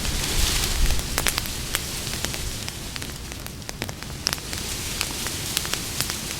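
Campfire burning, with a steady rush and irregular sharp crackles and pops from the burning wood.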